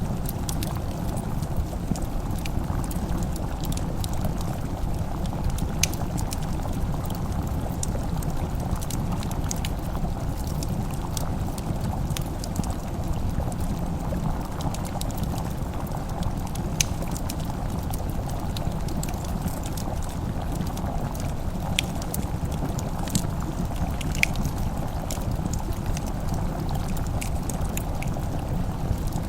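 Wood fire crackling, with scattered sharp pops over a steady low rumble, and a pot simmering and bubbling underneath.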